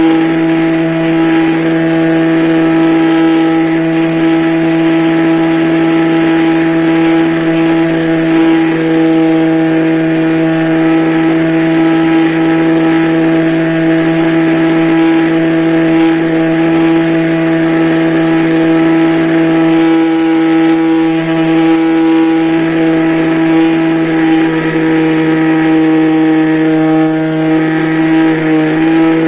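Radio-controlled model airplane motor running at a steady, high, constant pitch. The pitch steps down right at the end as the throttle is eased.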